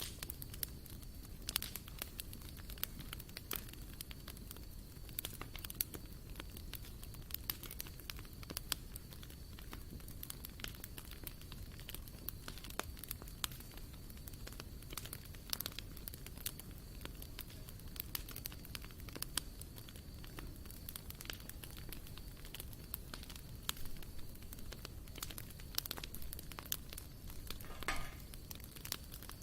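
Wood campfire burning, with irregular crackles and sharp pops over a steady low rumble.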